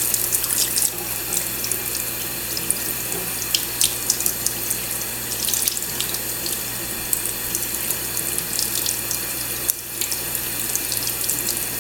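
Kitchen sink faucet running steadily, its stream splashing over a cockatiel held under it and into the sink, with many small splashes and drips.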